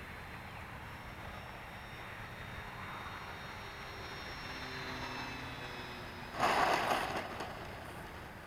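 Electric motor and propeller of an E-flite Carbon-Z Cessna 150 RC plane at low throttle on landing approach: a faint whine that slowly falls in pitch. About six and a half seconds in, a louder rush of noise lasts about a second.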